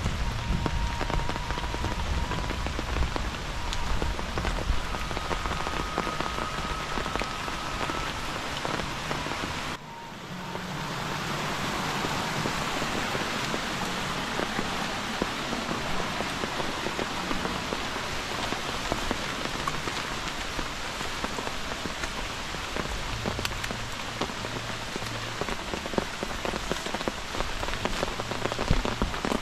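Steady rain falling on leaves and muddy ground, an even patter. About ten seconds in it drops away suddenly for a moment, then builds back up.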